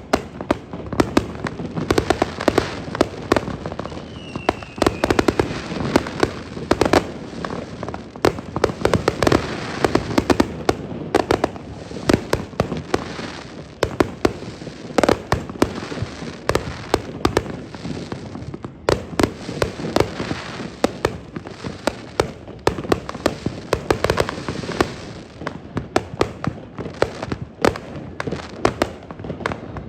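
Fireworks display: a dense, unbroken barrage of shell bursts and crackling, many sharp reports a second. A brief falling whistle comes about four seconds in.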